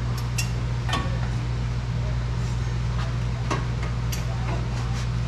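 Scattered light metallic clinks and taps as a steel exhaust pipe section is worked and slid into place, over a steady low machine hum.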